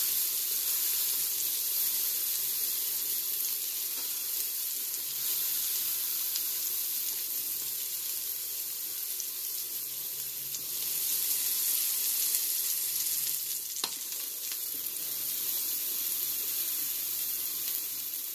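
Portobello mushroom cap frying in hot margarine in a frying pan: a steady sizzle. One sharp click comes about three-quarters of the way through.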